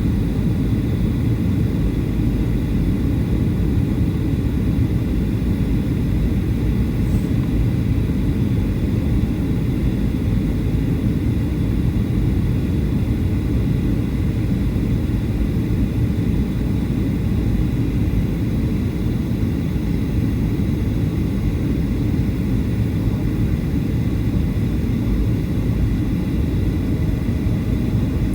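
Boeing 737-800 cabin noise in flight: a steady, even rush of the CFM56 engines and airflow, with a faint constant whine on top.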